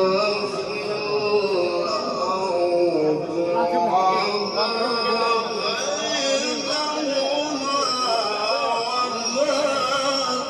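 A man reciting the Quran in a melodic chant, holding long notes that slide up and down in pitch.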